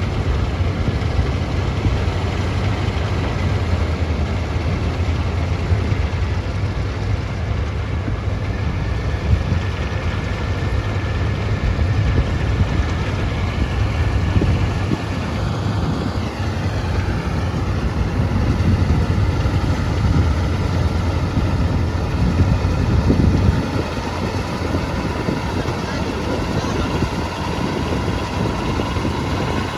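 Diesel engine of farm harvesting machinery running steadily with a deep, even hum; it drops slightly in level about three-quarters of the way through.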